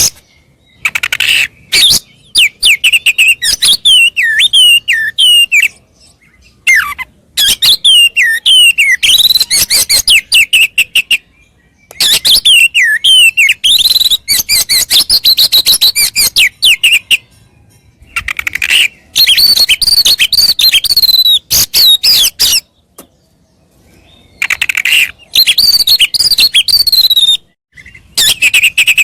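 Oriental magpie-robin (kacer) singing a loud, fast song in phrases a few seconds long. Whistled notes slide up and down, mixed with runs of rapid clicking rattles, and short pauses come between the phrases.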